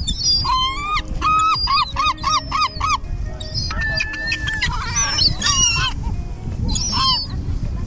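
Gulls calling loudly, a fast run of about seven repeated yelping calls in the first three seconds, then scattered calls, as the flock squabbles over food being handed out.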